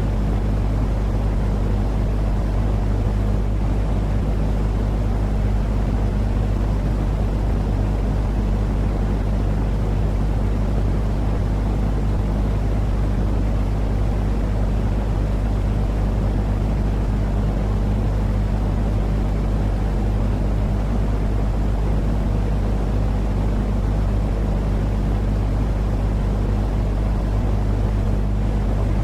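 Steady, loud low rumbling noise with a constant low hum under it, unchanging throughout. It is a continuous calming-noise track for lulling a baby to sleep.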